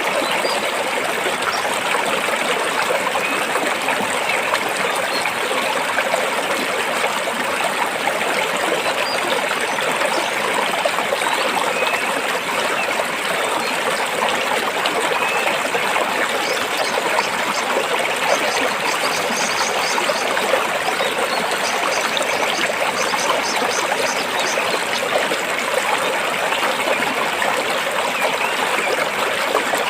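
Stream water flowing over and between rocks, a steady babbling rush.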